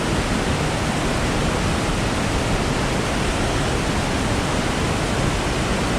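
Ozone Falls, a 110-foot waterfall in high flow, roaring as a loud, steady, unbroken rush of falling water.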